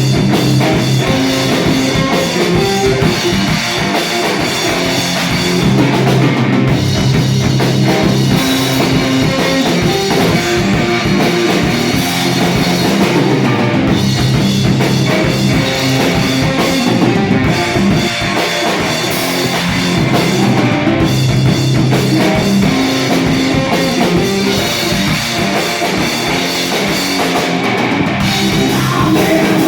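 Live rock band playing loudly: drum kit and distorted electric guitars, with no singing.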